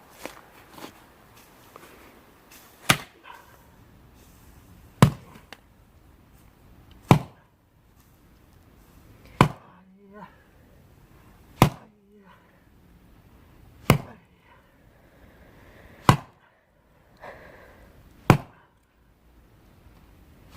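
Axe splitting twisted, knotty firewood: a steady series of heavy chopping blows, about one every two seconds.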